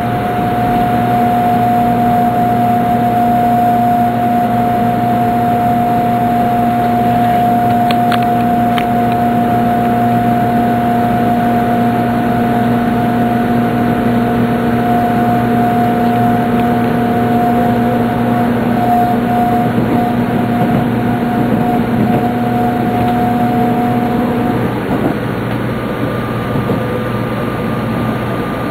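Steady running noise inside a Tokaido Shinkansen car as it slows into a station: a constant rumble under two steady whines, one higher and one lower. The whines stop about 25 seconds in, leaving the rumble and a fainter, higher tone.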